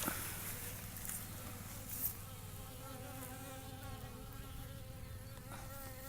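Honey bees buzzing around the hive, several wavering hums overlapping and drifting in pitch, with faint clicks about one and two seconds in.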